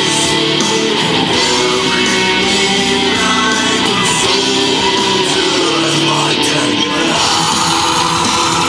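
Rock music with guitar and some singing, played through a motorcycle's custom stereo: Polk Audio 6.5-inch and 4-inch speakers and a Hogtunes tweeter bar, driven by a Rockford Fosgate amplifier, picked up by a GoPro Hero3's microphone.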